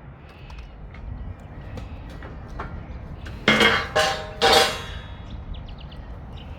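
Three loud metal clangs with a ringing tail, about half a second apart, a little past halfway, among lighter knocks and clinks: heavy steel square hollow section being handled and set up in a saw.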